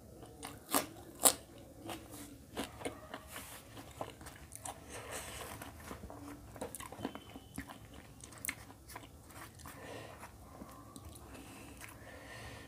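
Close-up crunching bites into a piece of raw onion, two loud crisp crunches about a second in, followed by ongoing chewing with smaller irregular crunches.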